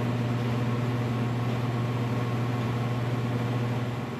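A steady low electric hum with an even hiss underneath, unchanging throughout.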